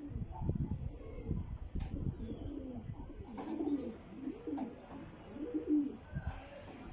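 Jacobin pigeons cooing, with low, rolling coos repeated over and over, several overlapping.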